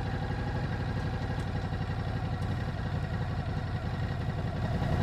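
2018 Ducati Multistrada 950's 937 cc Testastretta L-twin idling steadily through its stock exhaust, an even low pulsing beat.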